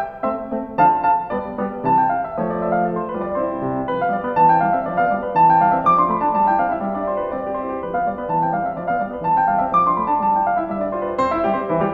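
Background piano music: a gentle melody of struck notes over sustained lower chords.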